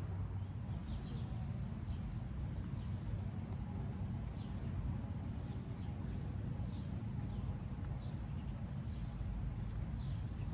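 Small birds chirping in short high calls every second or so, over a steady low rumble.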